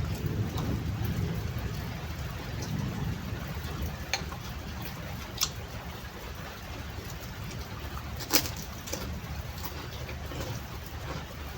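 Steady rain falling, with a low rumble that is strongest at the start and a few sharp clicks, about three over the stretch.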